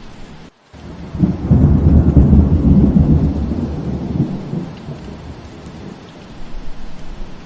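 Steady rain with a roll of thunder: a low rumble builds about a second in, peaks, then fades away over the next few seconds. The rain sound cuts out for a split second just before the rumble.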